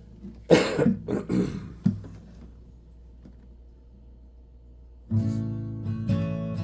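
A few short, loud, rough bursts in the first two seconds, then an acoustic guitar starts strumming chords about five seconds in.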